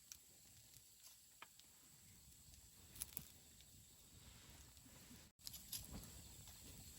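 Wood campfire burning softly, with faint scattered crackles and pops, the sharpest a pair about three seconds in and a few more near the end. The sound briefly cuts out about five seconds in.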